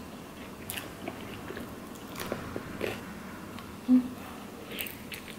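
Close-miked mouth sounds of a person chewing a tortilla-chip nacho, with a few faint crunchy clicks, then biting into a burrito. A short hummed 'mm' comes about four seconds in.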